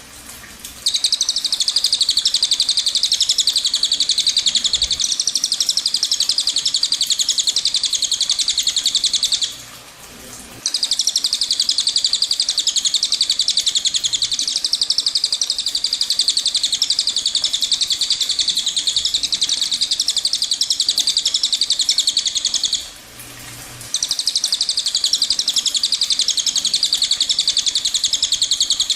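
A cililin bird singing its long rolling trill, a rapid high buzzing roll. It is held for about nine seconds, then about twelve, then starts again, with short breaks between.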